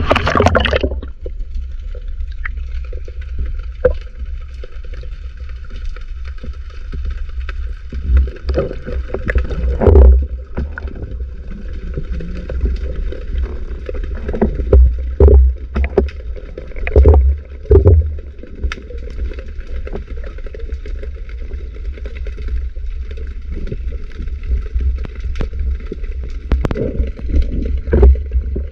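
Muffled underwater noise: a steady low rumble of moving water with irregular knocks and clicks, and several louder thumps through the middle stretch.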